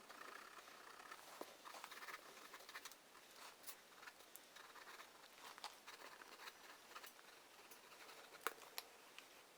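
Faint scratching of a drawing tool on paper: irregular short strokes and light taps, with a couple of sharper clicks near the end.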